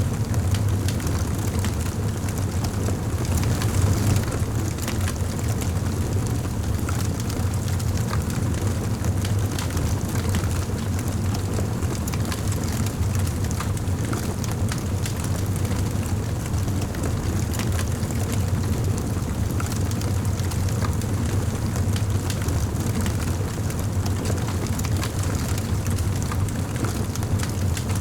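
Fire burning in a fireplace: a steady low rumble of flames with many small crackles and pops scattered throughout.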